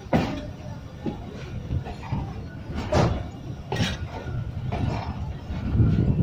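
Moving passenger train heard from an open carriage window: a steady rumble of wheels on rails with a few sharp clacks over the rail joints, getting louder near the end.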